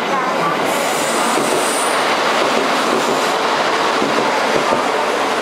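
KiHa 85 series diesel limited express train pulling in close alongside the platform: a loud, steady rush of wheels and running gear, with a high-pitched squeal from about a second in that fades after three seconds.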